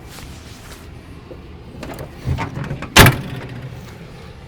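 Scuffing and rustling, then a single sharp, loud knock or slam about three seconds in.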